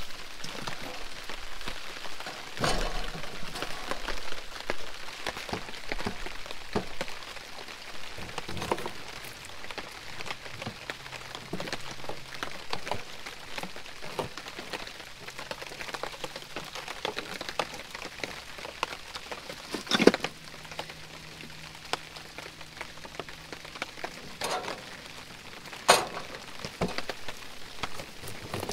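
Steady rain falling on a tarp awning, with scattered knocks of a knife cutting vegetables on a plastic cutting board; a few louder knocks stand out about 3, 20 and 26 seconds in.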